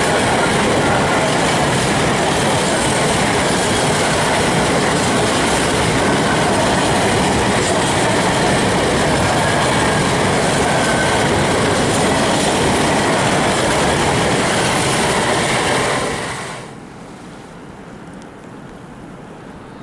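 Freight train of open coal wagons rolling past at close range: a steady, loud noise of wheels on rails. About 16 s in it cuts off abruptly to much quieter outdoor sound.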